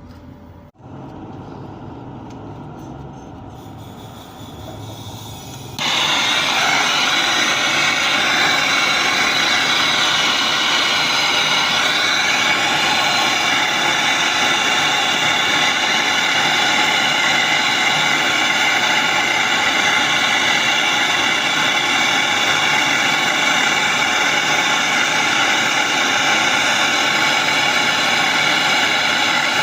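A low background rumble, then about six seconds in a loud, steady rushing noise cuts in suddenly, with several steady whistling tones in it, and runs on unchanged.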